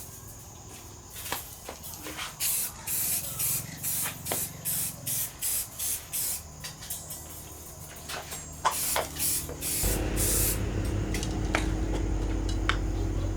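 A run of short hissing spray bursts, about two a second. A steady low hum starts about ten seconds in.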